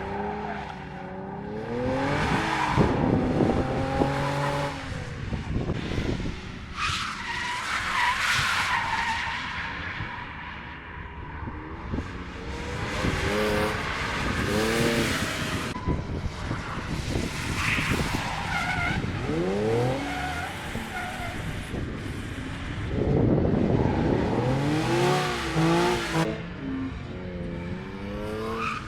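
Drift cars sliding past on track, engines revving hard and rising and falling in pitch over and over, over the hiss and squeal of tyres sliding sideways.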